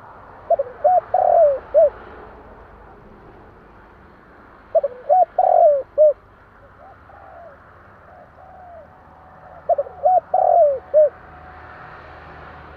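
Spotted dove (tekukur) singing its cooing song: three phrases of four or five short notes each, repeated about every five seconds, with fainter coos between the phrases.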